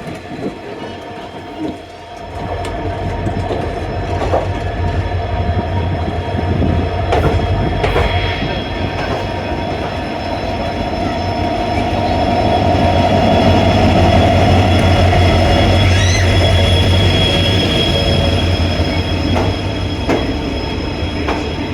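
Train on the move on rails: a low rumble with wheel clatter and a thin, high wheel squeal, growing louder through the middle and then easing off.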